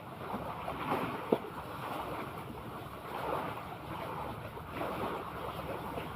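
Sea water sloshing and lapping in uneven swells, with wind on the microphone. There is one sharp knock a little over a second in.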